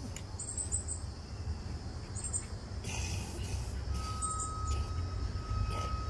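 Outdoor yard ambience: a few short, high bird chirps over a steady low rumble. A faint, thin steady tone comes in about two-thirds of the way through.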